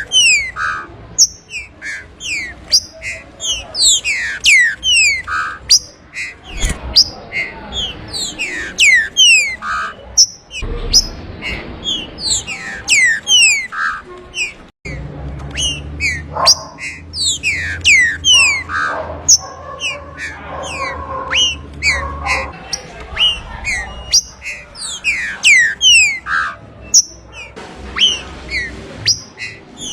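Green-winged saltator (trinca-ferro) song: loud, quick whistled notes, mostly sliding downward, repeated many times a second in dense phrases with short breaks between them.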